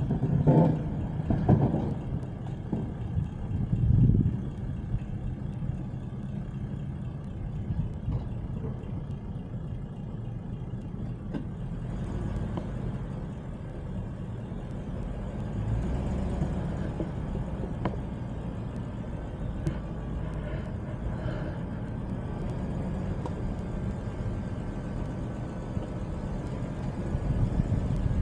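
A car's steady engine and road rumble while driving, with a few short knocks in the first four seconds.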